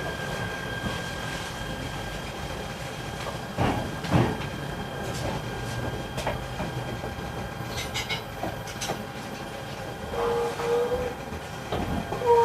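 E129 series electric train rolling slowly into a station, heard from inside the car: a low rumble with a steady high inverter whine and the clack of wheels over rail joints every few seconds. Near the end a steady two-note tone sounds in short, broken stretches.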